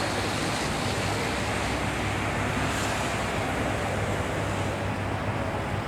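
Wind rushing over the microphone in a steady noisy wash, over a steady low drone from the boom lift running.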